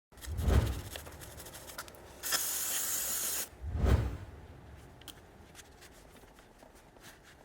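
A short burst of aerosol spray hissing for about a second, set between two low falling whooshes, followed by faint light ticks.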